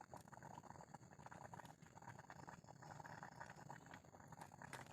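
Faint bubbling and small crackles of a pot of rice boiling hard over a large open fire.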